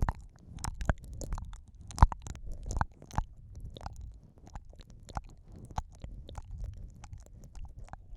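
Wet, close-up ASMR mouth sounds for ear eating: irregular clicks, smacks and pops, with the loudest pop about two seconds in, over a low rumble from the microphone being handled.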